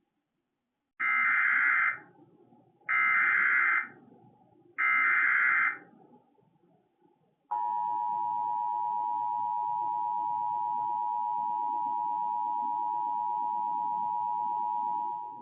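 Emergency Alert System signal: three short bursts of SAME header data tones about two seconds apart, then the steady two-tone attention signal held for about eight seconds before it cuts off near the end.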